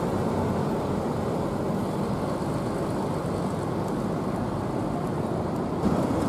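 Bus engine running, a steady low rumble, with a brief louder surge near the end.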